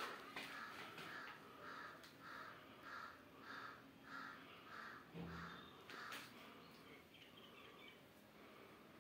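A bird calling, faint: an even run of about ten short calls, a little under two a second, which stops about six seconds in. A soft low thud and a sharp click come just before the calls stop.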